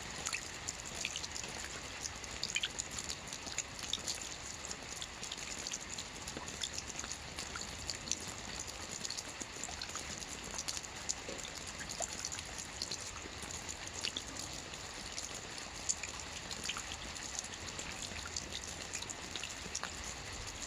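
Gentle light rain falling steadily, with many small scattered drop patters and no thunder.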